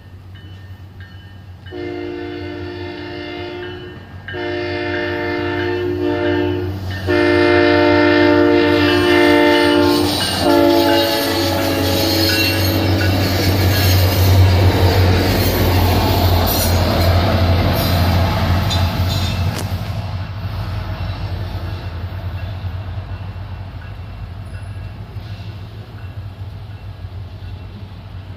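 SunRail commuter train's horn sounding four blasts as it nears the grade crossing. The train then passes, its wheels rumbling loudly on the rails, and the sound slowly fades as it goes away. A steady low hum runs underneath.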